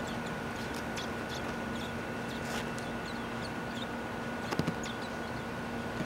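Short, high bird chirps, scattered and irregular, over a steady hum and outdoor background hiss. A few sharp ticks come about four and a half seconds in.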